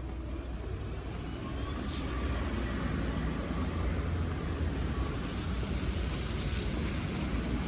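Steady low rumble of outdoor city background noise, growing slightly louder about two seconds in, with one faint click near two seconds.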